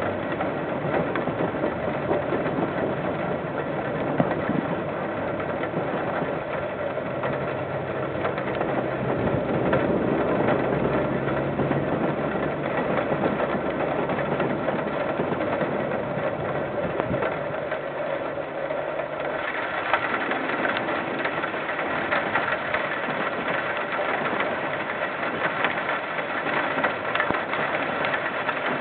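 KiwiRail train passing, heard through a security camera's microphone: a diesel locomotive's engine runs with a steady low hum, and about two-thirds of the way in the hum drops away, leaving a dense, rhythmic clatter and rattle.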